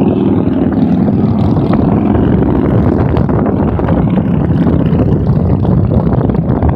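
A procession of motorcycles riding past on a highway, many engines running together in a loud, continuous drone as they go by.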